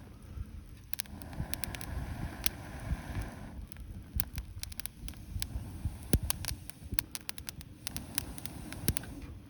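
Wood campfire crackling: irregular sharp pops and snaps over a low steady noise, with one loud pop about six seconds in.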